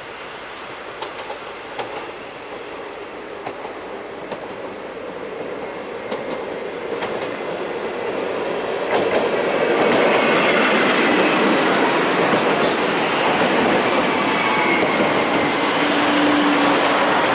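CAF Urbos 3 tram running on its rails. There are a few sharp clicks in the first seven seconds, and the sound swells markedly louder about nine seconds in. A brief wheel squeal comes near the end.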